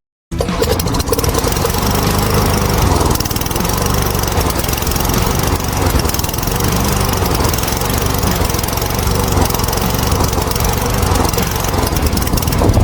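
Small lawn mower engine running steadily at speed. It cuts in abruptly just after the start.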